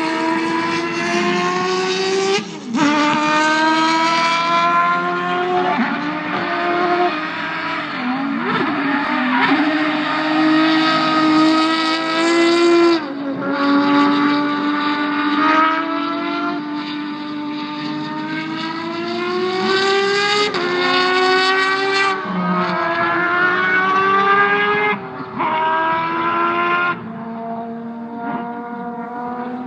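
Peugeot rally car engine revving hard while drifting through a corner: the pitch climbs repeatedly and cuts off sharply at gear changes or lifts, about five times, with tyre squeal under it.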